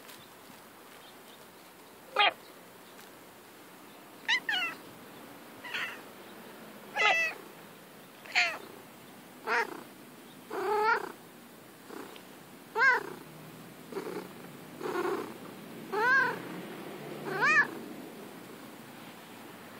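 Domestic cat meowing over and over: about a dozen short meows, roughly one every second or so.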